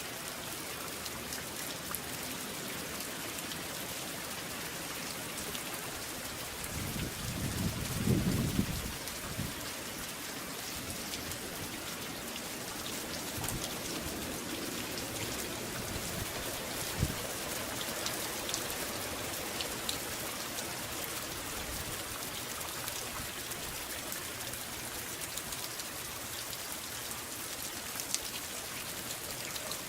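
Steady rain pouring down in a nor'easter storm, with a brief low rumble about eight seconds in.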